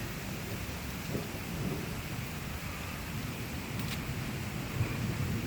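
Steady rainfall, with a low rumble underneath and one sharp drip-like tap about four seconds in.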